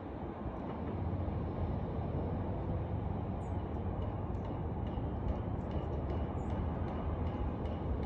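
A steady low rumble with two faint, short, high bird chirps, about three seconds apart, in the middle of the stretch.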